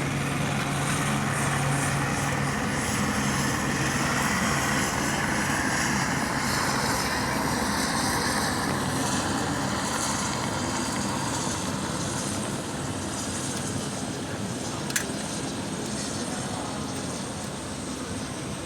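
Helicopter flying, its steady rotor and engine noise slowly getting quieter as it moves away, with a single sharp click about fifteen seconds in.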